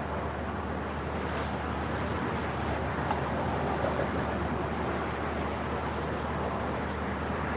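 Steady vehicle noise: a low, even hum with hiss, holding level throughout.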